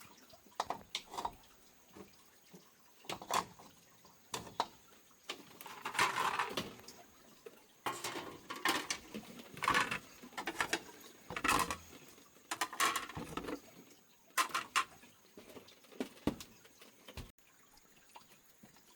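Irregular knocks, clicks and clatter of objects being handled and set in place, with a few longer scraping or rustling stretches in the middle.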